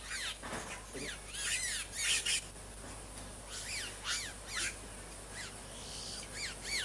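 Wild birds calling in forest: clusters of short whistled notes, each rising and falling in pitch, repeated through the whole stretch.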